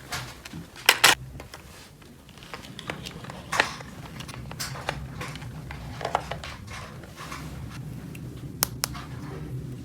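Small hard plastic toy pieces being handled, with a few sharp clicks and taps (two close together about a second in, more later) and light rustling, over a low steady hum.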